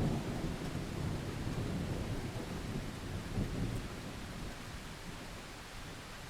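Steady rain with a low rolling rumble of thunder, strongest at first and easing off toward the end.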